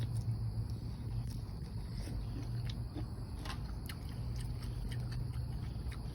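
Someone chewing and biting food, with faint scattered clicks over a steady low hum.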